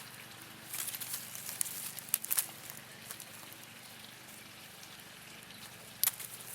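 Dry leaves and twigs crackling and rustling in a short stretch about a second in, then a single sharp crack near the end.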